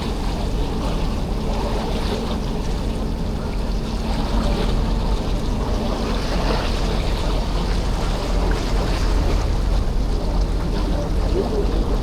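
Steady low hum of a passenger ferry's engine under way, with the wash of sea water along the hull, growing a little louder about four seconds in.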